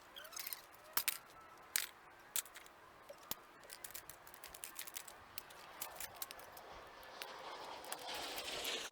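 Irregular small clicks and clinks of broken coffee-maker pieces being picked up and handled, with a hiss growing louder near the end.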